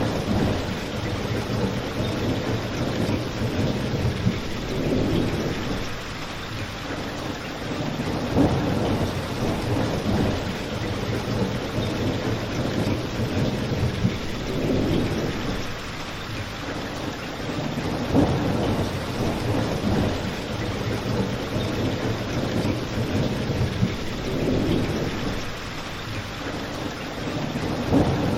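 Steady rain, with low rumbles swelling and fading every few seconds. A few sharp pops from a crackling fireplace stand out above it.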